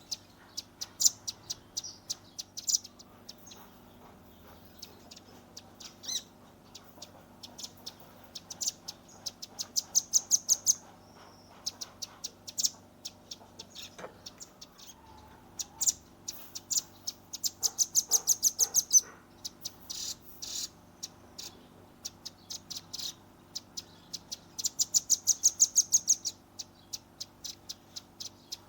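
Velvet-fronted nuthatch (red-billed rambatan) calling: scattered sharp, high chips, broken three times by a fast, loud rattling trill lasting a second or two. These trills are the 'tembakan' (shooting) call used to tutor other songbirds.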